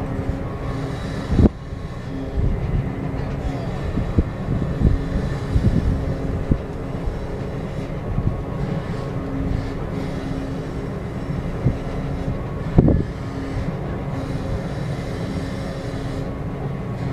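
Steady low rumble of a bulk cargo ship's machinery while its mooring lines are heaved in, with a hum that comes and goes. Two sharp knocks stand out, one early on and one about three-quarters of the way through.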